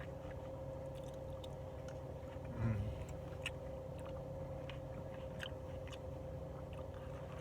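Chewing, with scattered small mouth and utensil clicks over a steady low hum; a brief, louder low sound about two and a half seconds in.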